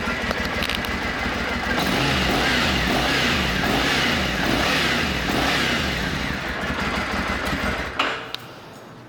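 2014 Triumph Scrambler 900's air-cooled parallel-twin engine running and being revved, rising and falling in pitch, then switched off with a click about eight seconds in.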